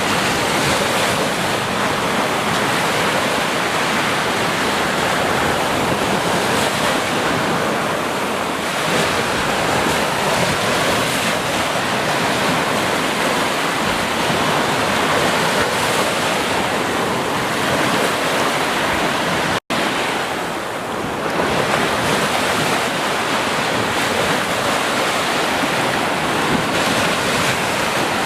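Ocean surf washing continuously onto a beach, a steady dense rushing. It cuts out to silence for an instant about two-thirds of the way through.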